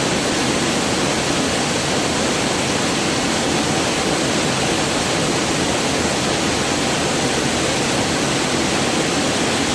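Waterfall rushing: a loud, steady, unbroken roar of falling water.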